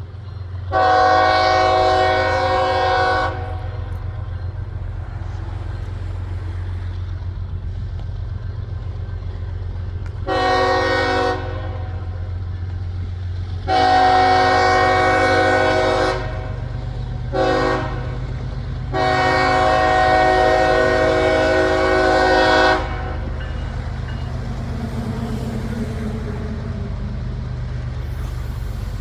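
Diesel locomotive horn on the lead unit CSX 1973, sounding five blasts: long, short, long, a very brief tap, then a final long blast. Between the blasts the locomotive's diesel engine rumbles steadily as the train passes.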